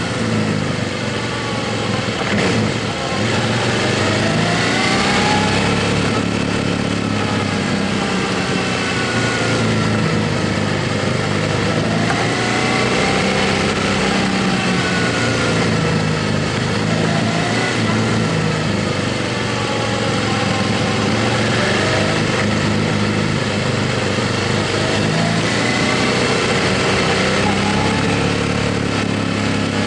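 Motorcycle engine running under way, its pitch rising and falling slowly several times over a steady rushing noise.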